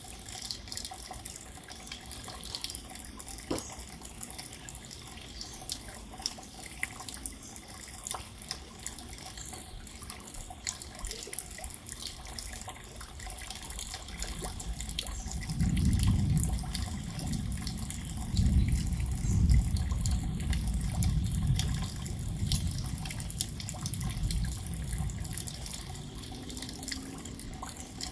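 Steady rain with many small drips and patters. About halfway through, a deep low rumble swells in and lasts roughly ten seconds before fading.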